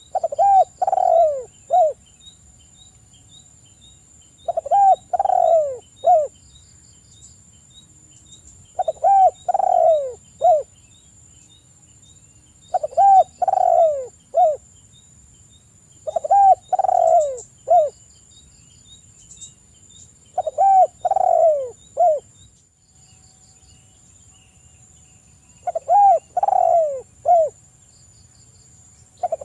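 Spotted dove (tekukur) cooing, a lure call to set other doves singing. Each phrase is three or four coos with a short final note, and the phrase repeats about every four seconds.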